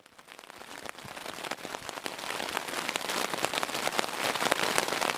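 Heavy rain drumming on a tent's fabric, a dense patter of countless drop impacts. It swells in over the first few seconds.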